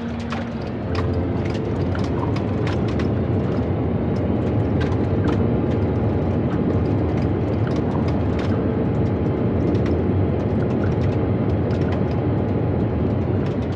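Airbus A320 airliner on its landing roll: a loud, steady rumble with many sharp rattles and knocks, which rises about a second in and then holds.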